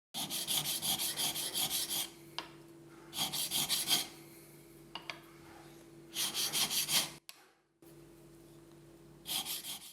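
A steel blade stroked rapidly back and forth on a wet sharpening stone, about five or six strokes a second, in four short runs with pauses between them.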